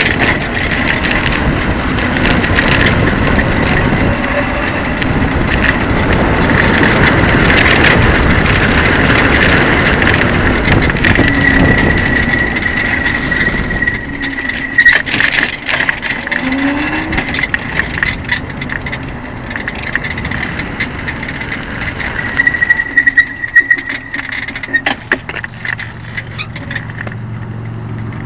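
Wind and rolling noise from riding an electric recumbent bicycle, with a thin high whine in the first half and again briefly later. About halfway through the rush drops off, leaving lighter rattles and sharp knocks.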